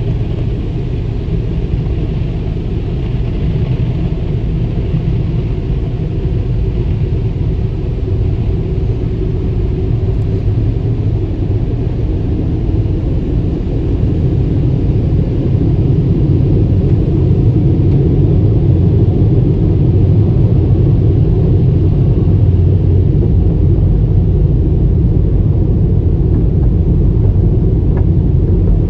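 Steady low rumble of automatic car wash machinery, getting a little louder about halfway through.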